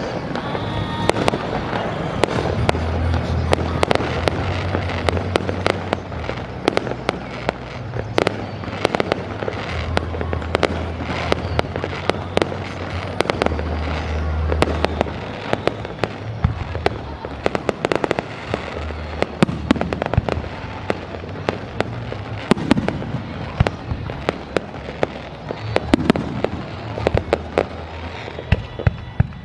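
Aerial fireworks bursting in rapid succession: many sharp bangs and crackles, some with a short echoing tail, with a steady low bass underneath.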